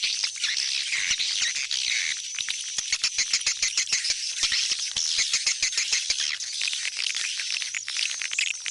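Swiftlet calls of the kind played as a lure to draw swiftlets back into a swiftlet house: a dense, unbroken stream of rapid high chirps and clicks. A faint steady low hum lies underneath.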